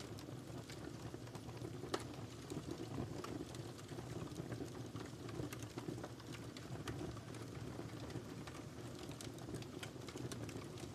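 Wood fire crackling in a fireplace: a steady low rumble of flames with scattered sharp pops and snaps, one louder pop about two seconds in.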